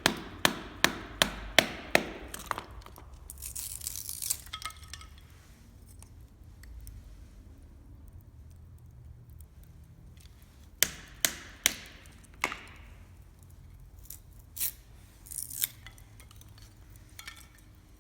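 A run of sharp knocks, about two to three a second, then after a pause four more knocks and a few scattered ones near the end.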